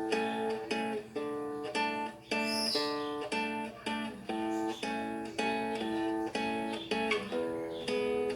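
Acoustic guitar strummed in a steady rhythm of chords, about two strokes a second, with no voice.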